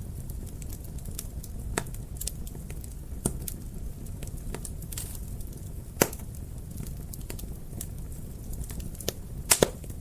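Fire in a fireplace crackling: scattered small crackles and a few sharp pops, the loudest about six seconds in and a quick pair near the end, over a low steady rumble.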